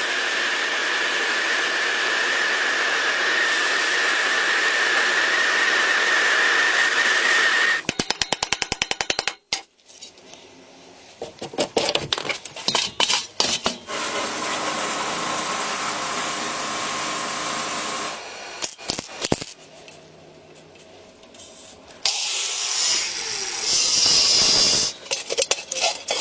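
A power tool running in spells: a first run of about eight seconds with a steady high whine, then a quick string of rapid even clicks, and two shorter runs around the middle and near the end.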